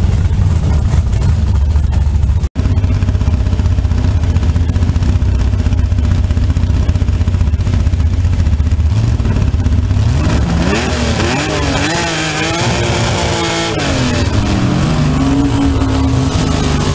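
Fuel-injected Holden 202 straight-six of a slingshot dragster running at a steady low idle, with a momentary break about two and a half seconds in; from about ten seconds in it is revved up and down several times.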